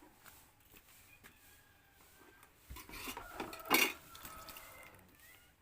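Faint light clicks, then a short clatter of tableware about three seconds in, peaking in one sharp knock with a brief ringing.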